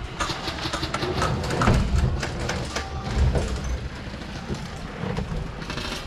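Irregular sharp clicks and knocks over a low rumble during airsoft play, with a denser cluster of clicks near the end.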